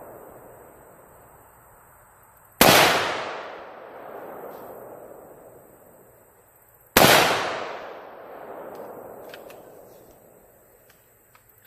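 Two rifle shots from a 6.8 SPC rifle, about four seconds apart, each followed by a long rolling echo that dies away.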